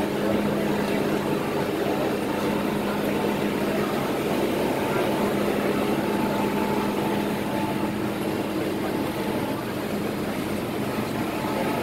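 MTR M-Train electric metro train running at speed, a steady rumble of wheels and running gear with a constant low hum and a fainter steady higher tone.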